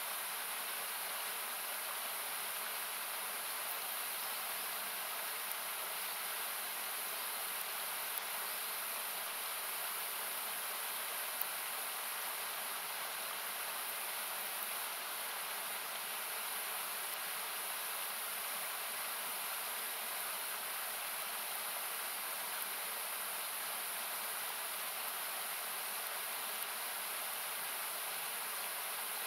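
Steady rush of a nearby river or waterfall, equalized to thin it out, with a few faint crackles from the campfire.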